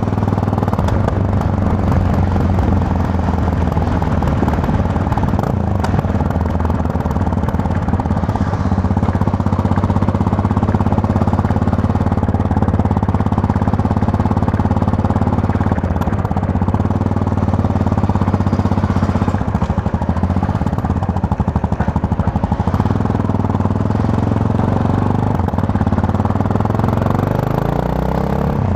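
Yamaha MT-03 motorcycle engine running at steady riding revs, heard from the rider's position. Near the end the engine speed climbs as the rider accelerates.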